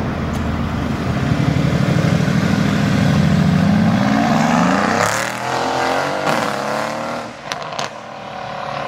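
A car accelerating hard past, its engine note climbing for about three seconds, then easing off and fading away.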